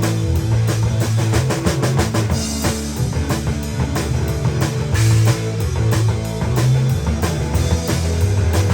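Rock band playing an instrumental passage: drum kit keeping a steady beat under bass and guitar.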